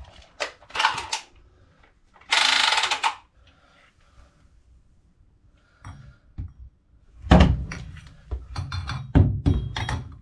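Hand tools and pipe fittings being handled: scattered clicks and knocks, with one rasping sound lasting about a second a couple of seconds in, then a quick run of clatters and knocks near the end.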